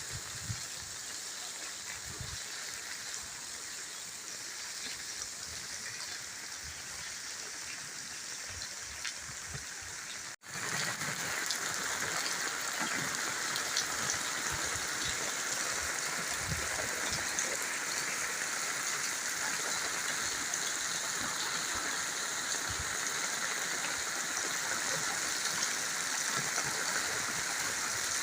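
Steady rain falling, an even hiss with scattered drop ticks. It cuts out for an instant about ten seconds in and comes back a little louder.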